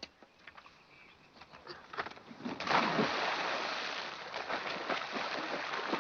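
Water splashing: a sudden loud splash about two and a half seconds in, followed by continuous splashing and thrashing, as of someone who cannot swim floundering in the water.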